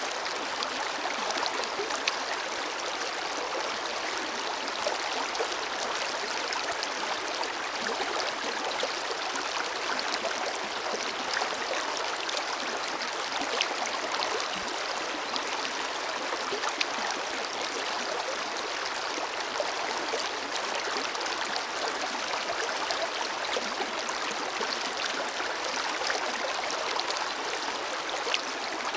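Forest river flowing steadily, a continuous rush of water with small splashes and gurgles through it.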